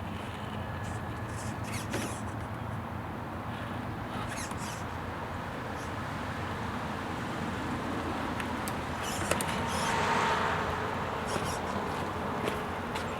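3D-printed RC crawler driving, its small electric motor and gearbox running under a steady noise with scattered clicks and knocks. About ten seconds in it gets louder with a brief whine.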